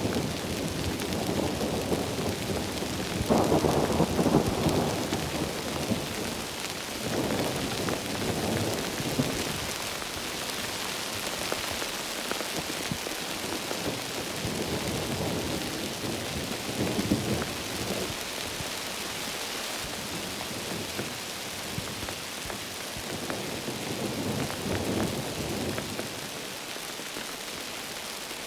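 Heavy rain falling steadily, with rolls of thunder rumbling under it: the loudest about three to four seconds in, and fainter ones around eight seconds, midway and near the end.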